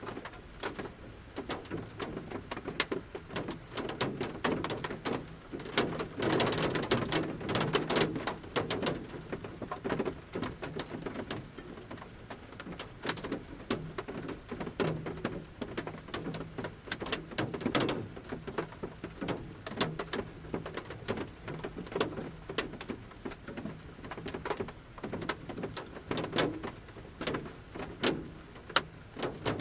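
Large raindrops falling from the forest canopy onto a camper van's roof, heard from inside the van: irregular sharp ticks and patters, with a denser spell of drops about six to nine seconds in.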